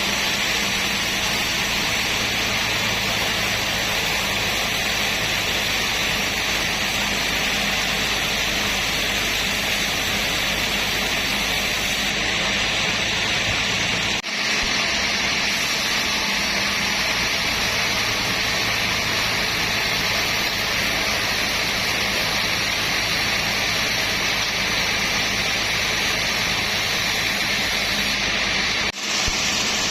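Sawmill machinery running steadily: a constant loud whirring noise over a low hum, with no audible change in load. It drops out briefly about halfway through and again near the end.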